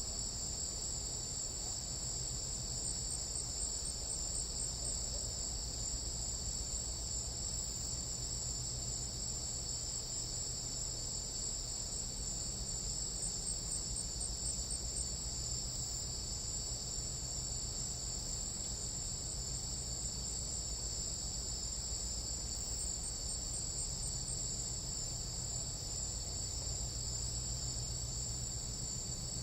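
Tropical night insects calling in a dense, unbroken chorus: a steady high-pitched shrill at two pitches.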